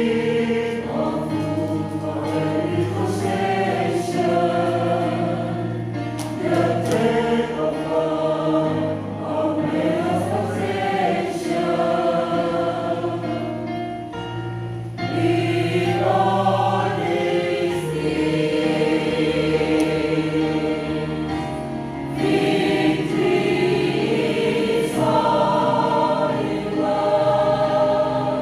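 Church choir singing a gospel song in parts, with sustained held chords over a steady low accompaniment.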